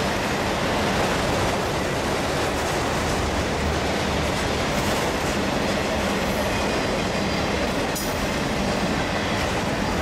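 Freight train of autorack cars rolling past at a steady speed, its steel wheels running on the rails with a constant loud noise. A brief sharp metallic noise comes about eight seconds in.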